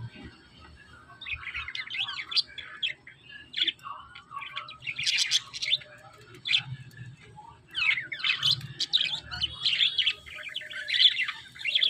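Small pet parrots chirping and twittering in quick, high bursts. The bursts come in clusters, with a long busy stretch of chatter over the last few seconds.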